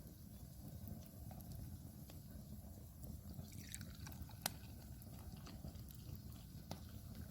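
Wood fire burning in a brazier, faint, with a low rumble and a few sharp crackles, the clearest about halfway through.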